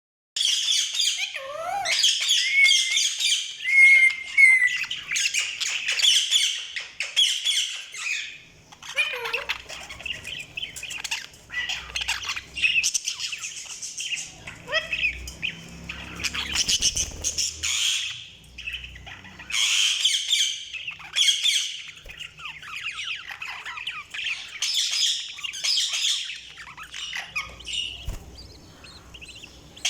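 Budgies (budgerigars) chirping, chattering and warbling continuously, with rapid irregular phrases and short squawks.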